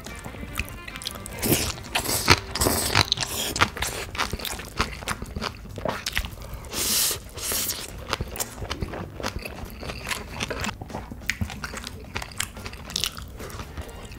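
Close-miked chewing of a mouthful of spicy pork and bean sprouts: crisp crunching and wet mouth clicks in quick, irregular succession, loudest in the first few seconds.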